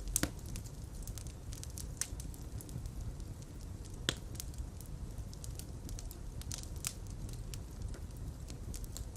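Fireplace fire burning with a steady low rumble and scattered sharp crackles and pops, the sharpest near the start and about four seconds in.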